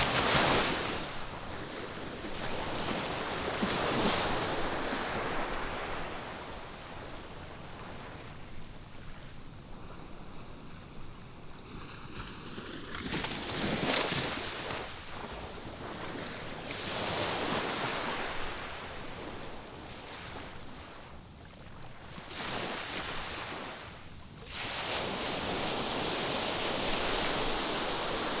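Ocean surf breaking and washing onto the shore in irregular swells, with a louder, steadier wash setting in near the end.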